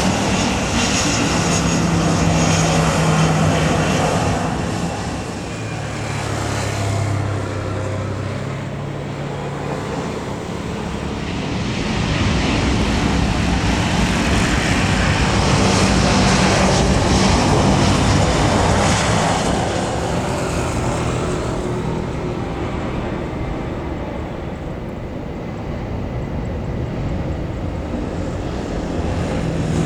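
Jet airliner engines passing, a loud broad noise that swells and fades over many seconds, with a low hum that drops in pitch within the first ten seconds.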